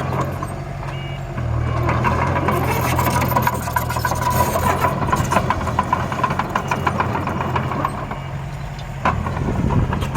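A truck engine running steadily. From about two and a half seconds in, a busy run of clicks and knocks is heard over it until near the end.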